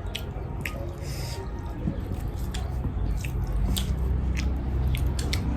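Eating sounds: chewing with irregular small clicks and smacks of the mouth, over a steady low rumble.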